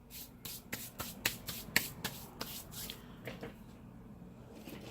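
Hands handling small phone parts, broken screen pieces and tools on a workbench: a quick run of small clicks, taps and scrapes, thinning out after about three and a half seconds.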